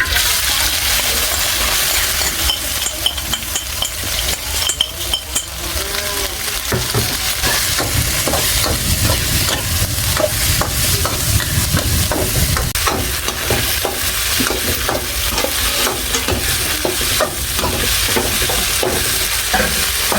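Small pointed snails sizzling as they fry in a pan, stirred with a utensil that clicks and scrapes against the pan again and again.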